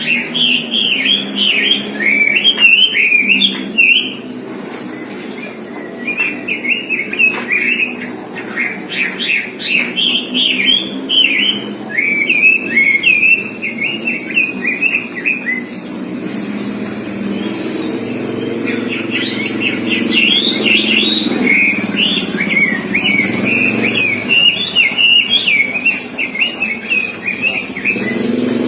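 Pekin robin (red-billed leiothrix) singing a fast, chattering warble that strings together imitated songbird phrases, with a short lull about halfway through. A low steady hum runs underneath.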